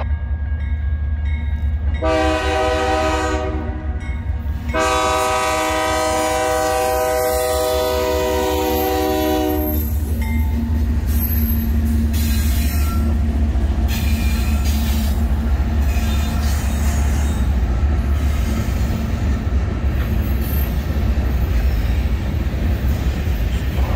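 BNSF freight diesel locomotive's air horn sounding for a grade crossing: a shorter blast, then a long blast of about five seconds. After that the lead locomotives and the covered hopper cars run past close by, a loud, steady rumble of engines and wheels on the rails.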